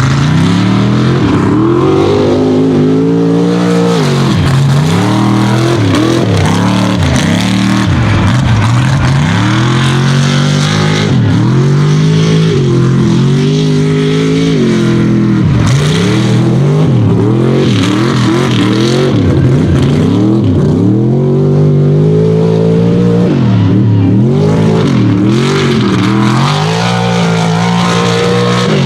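Unlimited-class mega truck engine revving hard, its pitch climbing and dropping again and again every second or two as the throttle is worked on and off.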